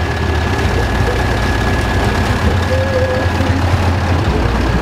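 Heavy truck diesel engine running loudly at a steady pace, a deep rumble with a thin steady whine above it.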